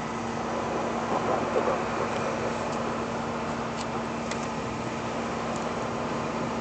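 A vehicle engine idling: a steady hum with one constant low tone throughout and a few faint clicks.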